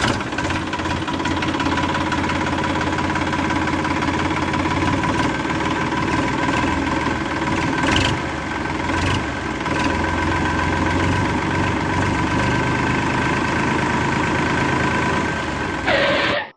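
A small motor runs steadily with a whine, and a couple of sharp clicks come about eight and nine seconds in.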